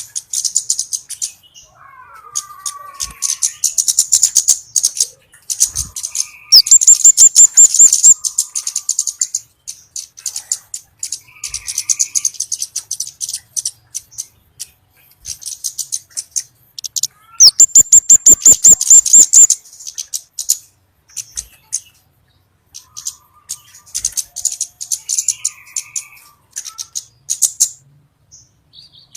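Orange-bellied flowerpecker lure call: bouts of high, thin rapid ticking notes with short pauses between them. Two very loud, fast trills come about six and seventeen seconds in.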